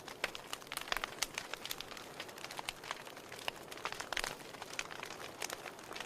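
Wood fire burning in a fireplace: irregular sharp crackles and pops, several a second, over a soft steady hiss of the flames.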